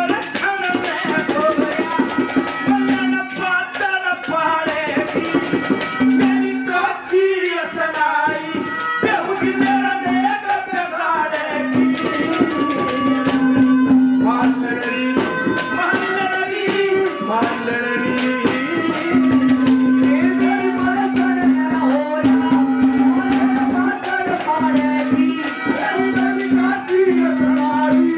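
Haryanvi ragni folk music: a singer's wavering voice over quick hand-drum strokes, with a steady held note beneath that breaks off and returns.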